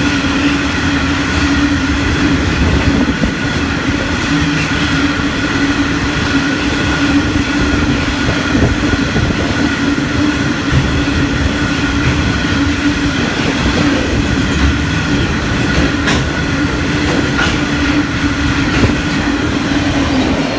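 Freight train of covered hopper wagons, a limestone train, rolling past close by: a steady rumble of wheels on rail with a constant hum over it.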